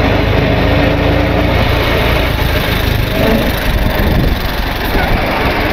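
Ford Model T's four-cylinder engine running as the open car drives slowly over gravel, a steady low rumble mixed with wind and road noise.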